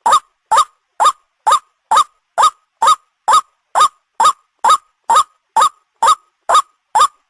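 White-breasted waterhen (ruak-ruak) call repeated as a steady rhythm of about two short notes a second, each a quick upward-sliding note, played as a recorded lure call for bird hunting.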